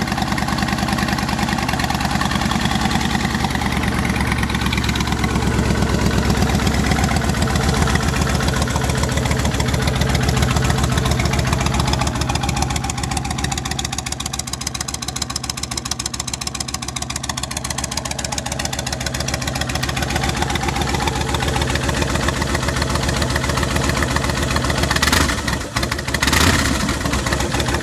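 2005 Kawasaki Vulcan 1600 Classic's V-twin running through Cobra short pipes, idling with a steady pulsing exhaust note that swells and eases a little. Near the end there are two brief sharp noises.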